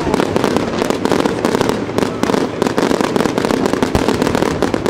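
Aerial fireworks display going off in a dense, continuous barrage of bangs and crackling.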